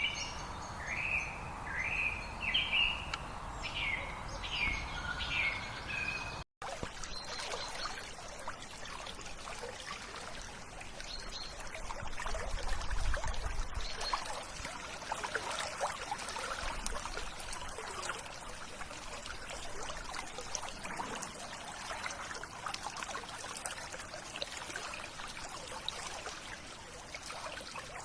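A bird sings a run of repeated short chirps over a steady background. After a brief dropout to silence about six seconds in, a river stream runs and trickles with a steady babbling.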